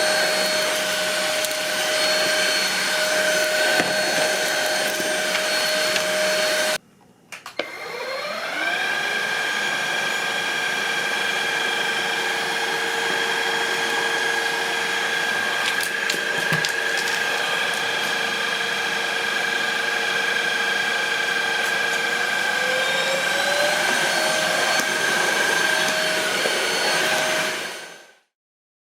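Catchwell CV6 Plus cordless stick vacuum running with a steady motor whine. About seven seconds in it cuts off briefly, then restarts with the whine rising as the motor spins up. Near the end the whine steps up in pitch, then the sound fades out.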